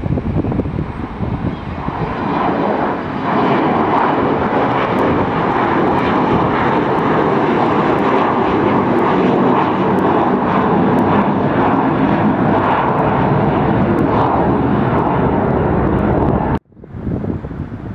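Aircraft engines running loud and steady close by, building up over the first few seconds, then cut off abruptly near the end, leaving wind noise on the microphone.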